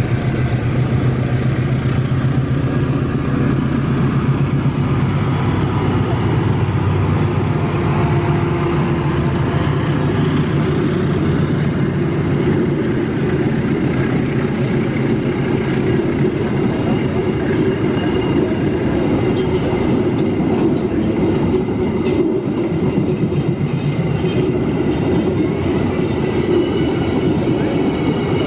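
Diesel-hauled passenger train passing close by: a low locomotive engine drone for the first several seconds, then the stainless-steel coaches rolling past with a steady rumble and wheels clicking over the rail joints in the second half.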